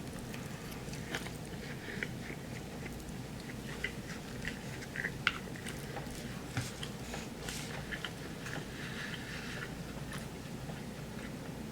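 A person chewing and eating food close to the microphone: soft, irregular mouth clicks and small crunches over a low steady hum.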